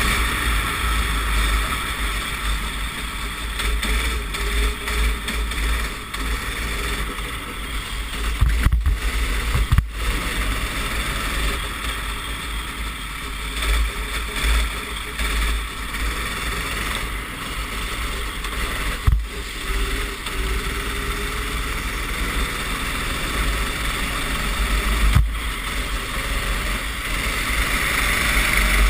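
Racing kart engine running on track, heard from the onboard camera with heavy wind buffeting on the microphone. Its pitch drifts up and down, and a few sharp knocks come through now and then.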